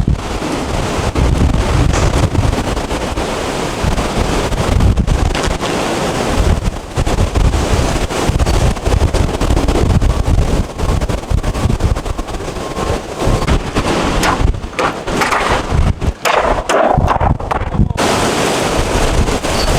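Hurricane-force wind roaring and buffeting the microphone in heavy gusts, with frequent sharp bangs and clatter mixed in.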